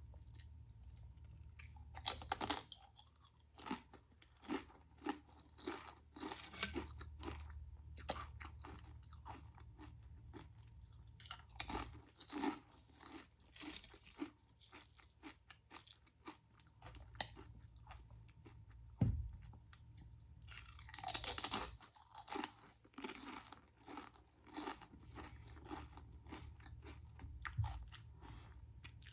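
Close-miked crunching and chewing of a crispy deep-fried Korean corn dog, in irregular crackles with two louder, denser crunchy bites, about two seconds in and about twenty-one seconds in.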